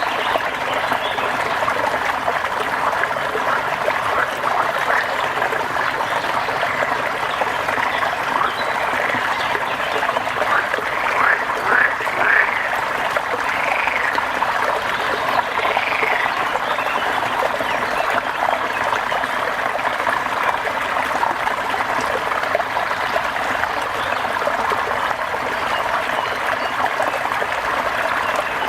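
Steady rain falling, with a few short calls that rise and fall from an animal, heard between about ten and sixteen seconds in.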